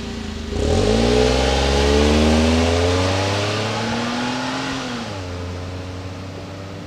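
Suzuki Wagon R Stingray's 660 cc three-cylinder engine breathing through a Suzuki Sport Type SP-X aftermarket muffler. It idles, is blipped about half a second in, and climbs steadily in pitch for about four seconds. Near the end the throttle closes and it drops back to idle.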